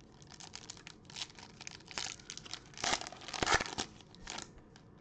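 Foil wrapper of a baseball card pack being torn open and crinkled, with a run of crackles that is loudest a little past the middle.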